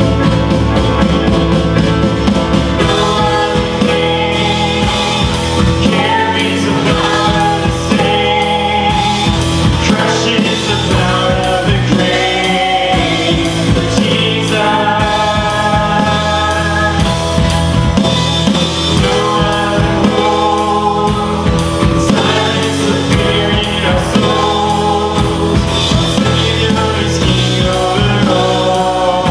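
Live worship band playing a contemporary worship song, with drums, instruments and sung vocals.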